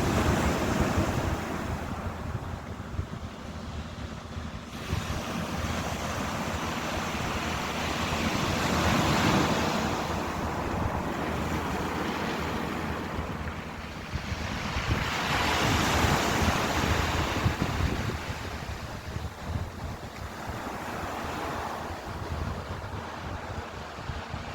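Ocean waves breaking and washing on a shore, swelling and falling back every several seconds, with wind buffeting the microphone.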